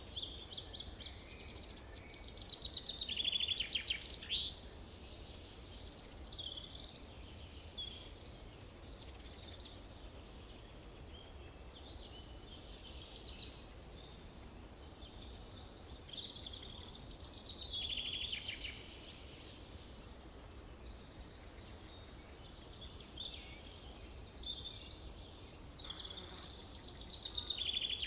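Forest birdsong: several birds singing overlapping phrases and rapid trills, loudest about three seconds in, around eighteen seconds in and near the end, over a steady low background rumble.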